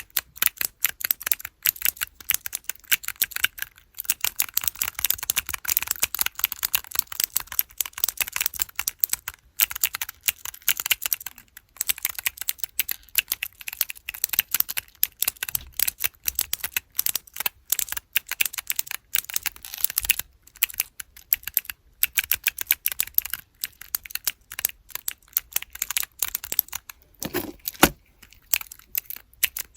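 Keychain keyboard blocks with clicky blue mechanical switches, pressed over and over in rapid clicking runs with a few short pauses.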